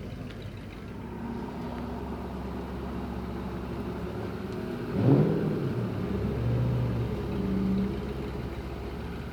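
Car engine running, with one sudden sharp rev about halfway through that dies back down.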